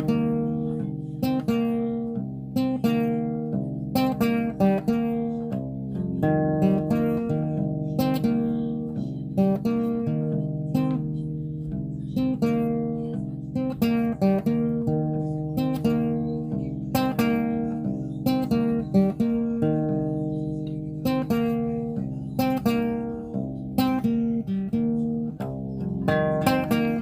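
Acoustic guitar playing an instrumental piece, plucked notes and chords sounding one after another at a steady pace.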